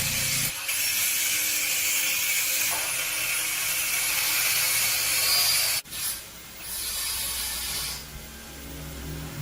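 Steady, high scraping noise, cut off abruptly about six seconds in, followed by quieter scraping.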